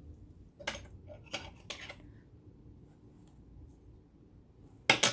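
Small metal clicks and clinks as the bobbin is taken out of a vintage all-metal sewing machine. A few light clicks come in the first two seconds, then a louder sharp double click near the end.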